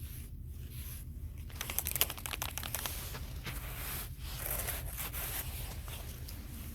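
Crinkling, crackling handling noise: a quick run of crackles begins about two seconds in and thins out after four seconds, over a steady low rumble.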